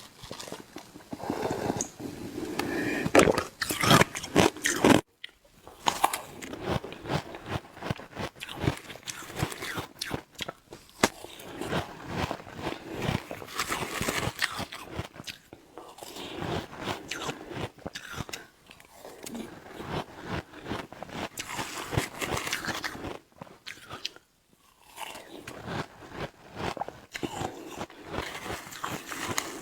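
Close-up biting and crunching of shaved ice, with chewing in quick crackling clusters and two short pauses.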